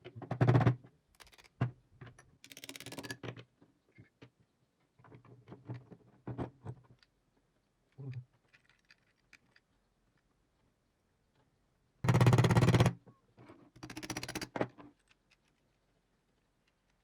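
Intermittent clicks, scrapes and rattles of metal parts being handled during work on an old hand drill. Two loud, rough bursts stand out, a short one at the start and a longer one about twelve seconds in.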